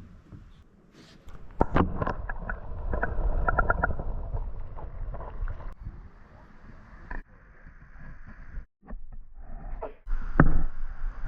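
Hand-cranked observation raft being moved along its guide cables across the spring: rumbling, with clicks and a run of short squeaks from the wheel and cable gear, and a sharp knock near the end.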